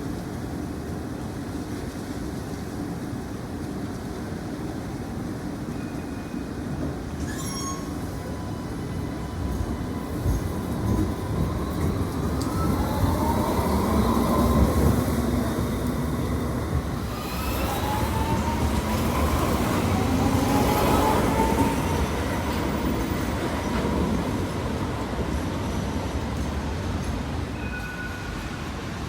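A light rail tram passing over street background noise. It grows louder about a third of the way in, with a rising electric whine twice during the pass, then fades away near the end.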